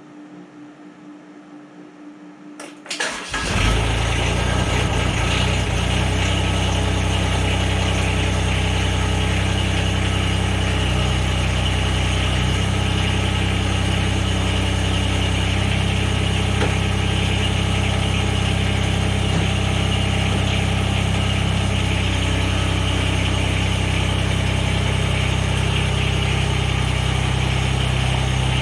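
Mahindra eMax 20S tractor's small diesel engine cranked and catching almost at once, about three seconds in, then running steadily at idle.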